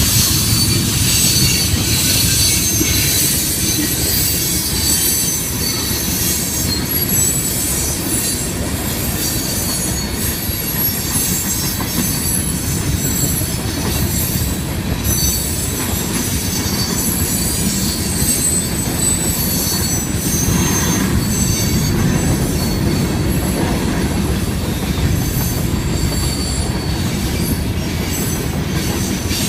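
Herzog ballast train's cars rolling past. There is a steady low rumble with high-pitched wheel squeal and repeated clicks from the rails.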